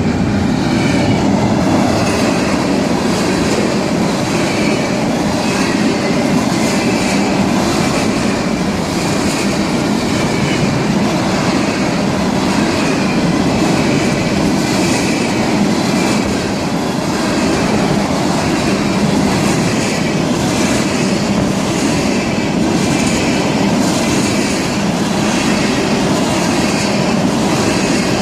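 Florida East Coast Railway freight cars rolling steadily past at close range, with the wheels clacking over the rail joints and faint wheel squeal coming and going.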